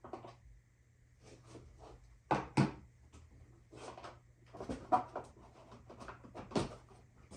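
Irregular knocks, clicks and rattles of an ATV's plastic parts and fittings being handled as the headlight is taken off. The loudest are a pair of knocks about two and a half seconds in, with single sharper knocks near five and six and a half seconds.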